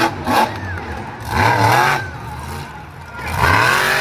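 Monster truck engine revving in short bursts, its pitch rising and falling, loudest about a second and a half in and again near the end.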